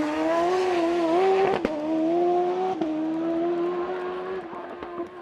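Hillclimb race car engine at high revs, its pitch climbing slowly and then dropping sharply twice on quick upshifts, the first with a sharp crack. The sound fades near the end as the car moves away up the course.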